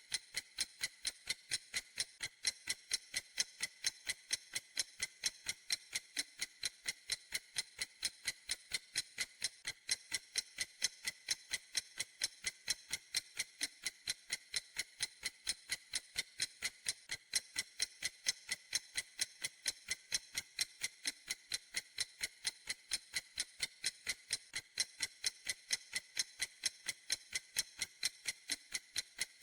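Clock ticking steadily: sharp, bright ticks evenly spaced at a few a second, unchanging throughout.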